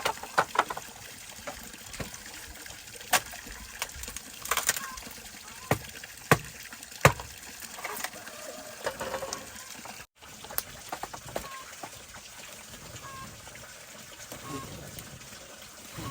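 Scattered sharp clicks and knocks over a steady hiss, with faint short chirps in the second half.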